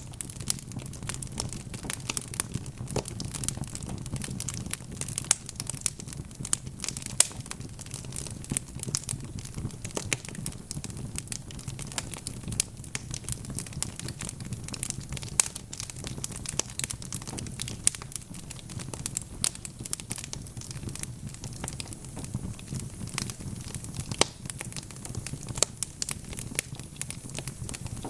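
Wood fire burning in a fireplace: logs crackling and popping in a dense, irregular stream of sharp clicks over a steady low rumble of the flames.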